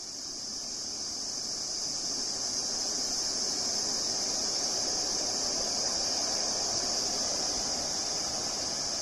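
A steady, high-pitched insect drone over a low, even rushing noise, both fading in at the start and then holding level.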